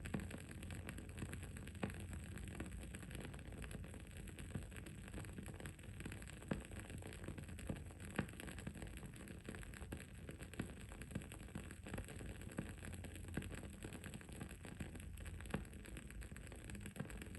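Wood-wick candle burning with an irregular crackle of small clicks and a few louder pops, over a steady low hum and high hiss of background noise.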